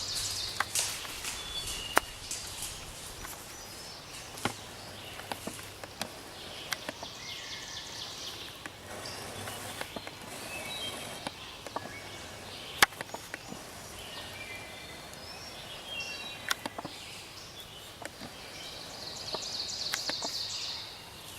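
Spring hardwood forest ambience: songbirds give short chirps and calls throughout, with scattered sharp clicks and snaps. A brighter hissing chorus swells near the end.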